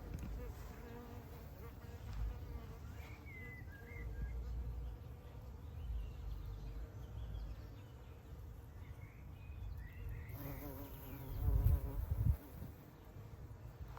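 A bee buzzing in flight, a steady hum that grows louder and fuller from about ten seconds in for two seconds as it passes close. Low thumps hit the microphone near the end of that stretch.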